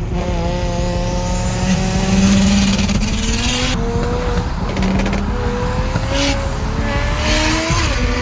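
A tuned, roughly 700 wheel-horsepower turbocharged Toyota Supra accelerating hard, its engine pitch climbing with a break for a gear change about four seconds in and another near the end. A thin turbo whistle rises over the first few seconds, and short hissing surges come with the shifts.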